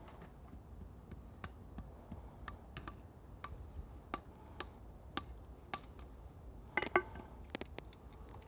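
Wood campfire crackling: irregular sharp pops and snaps over a low steady rumble, with a quick cluster of louder pops about seven seconds in.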